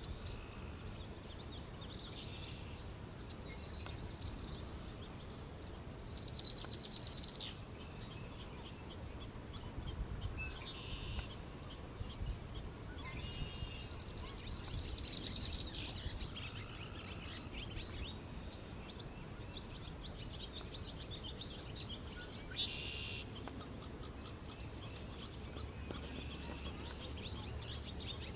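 Barn swallow twittering: several bursts of rapid high chirps and warbles with pauses between them, over a steady low background rumble.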